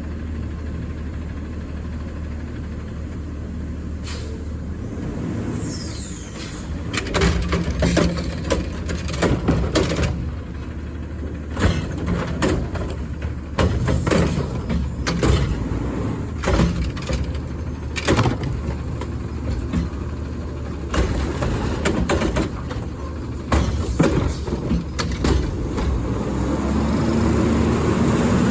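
Garbage truck idling, then a long run of loud metallic clanks and bangs as it works a collection stop, with the engine speeding up near the end.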